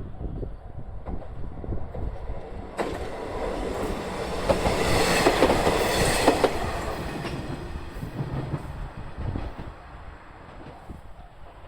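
Matsuura Railway diesel railcar passing, swelling to a peak with wheels clicking over the rail joints, then fading away.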